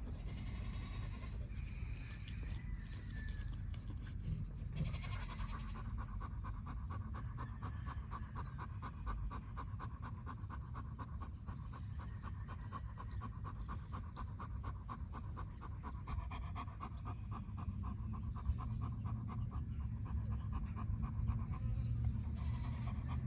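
Dog panting rapidly and steadily for most of the stretch, over a low rumble.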